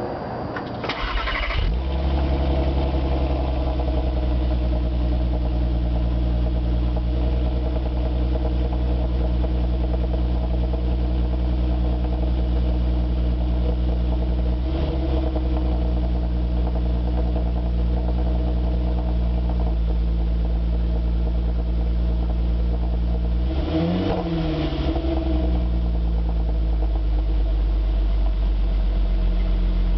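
2008 VW Golf R32's 3.2-litre VR6 on its stock exhaust, flap valve unmodified, starting about a second in and then idling steadily. One short blip of the throttle comes about three quarters of the way through.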